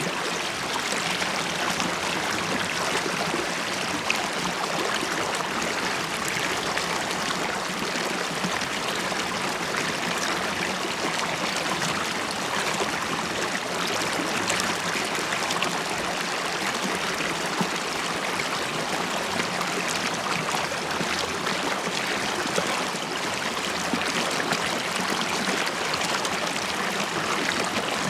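River water running and bubbling, a steady, unbroken babble with fine trickling detail.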